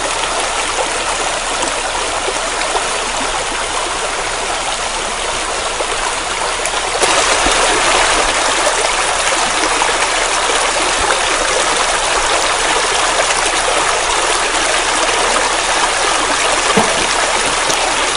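Steady rushing noise of running water, which steps up to a louder level about seven seconds in; no clear birdsong stands out.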